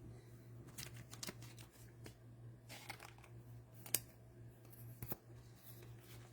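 Trading cards being handled on a table: faint scattered rustles and clicks, with a sharper tap about four seconds in, over a steady low hum.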